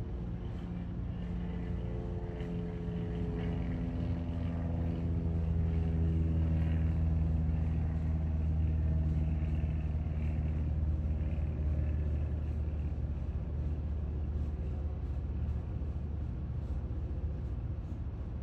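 A motor vehicle's engine running past: it grows louder toward the middle and then fades, its pitch falling slowly as it goes.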